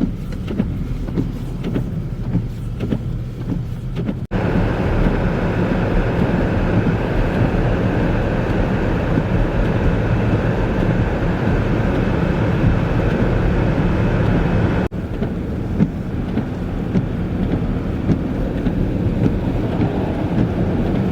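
Vehicle noise from snowy-road traffic: engines running steadily under a wash of road noise. The sound changes abruptly about four seconds in, turning louder and brighter, and again near fifteen seconds, where it drops back.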